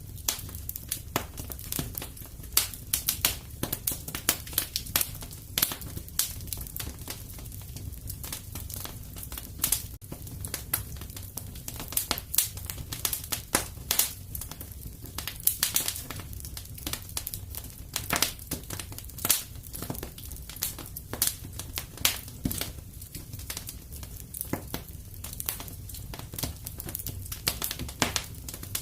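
Fire in a fireplace crackling, with irregular sharp pops, several a second, over a steady low rumble.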